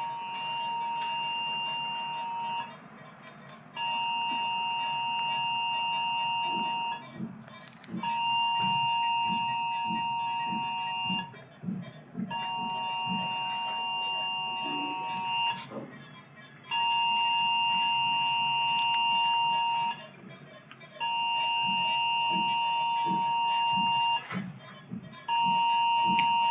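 Electronic alarm sounding a steady single-pitched tone in long beeps of about three seconds with roughly one-second gaps, repeating over and over.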